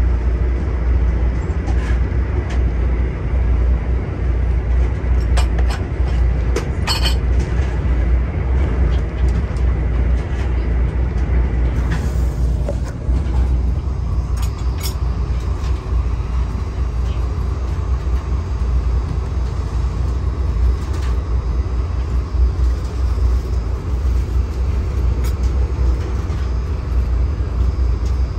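Steady rumble and rush of a passenger train running at speed, heard from inside an LRC passenger car, with a few light clicks and rattles.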